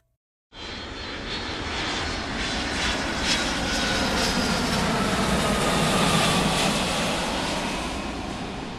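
Airplane engine noise passing by: a steady rush that swells and then eases, with a faint whine slowly falling in pitch.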